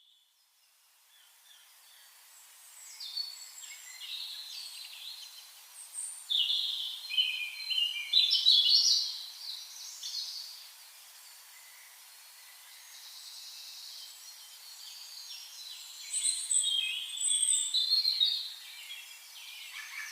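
Birds singing: bright chirping phrases that fade in at the start, are loudest in a busy stretch about a third of the way in, and come back strongly near the end.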